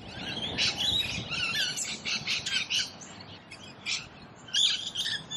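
Several birds chirping and calling in a busy, overlapping chorus that thins out after about three seconds, over a steady low background noise.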